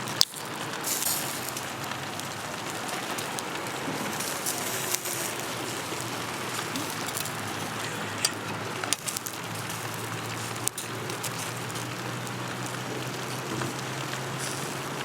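Steady rain falling, with a few sharp clicks scattered through it.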